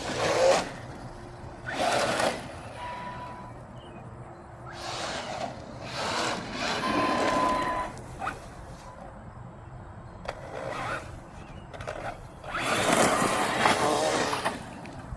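Arrma Mojave 4S RC truck's brushless motor and drivetrain running in several short bursts as it is driven, the loudest burst near the end.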